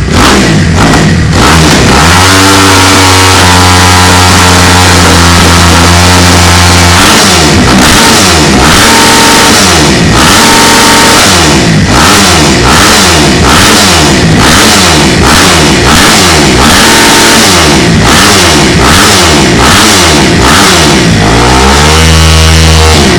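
Kawasaki 250 motocross bike with a slip-on Mass stainless competition exhaust, revved hard. It is held at high revs for several seconds, then blipped up and down over and over, and held high again near the end.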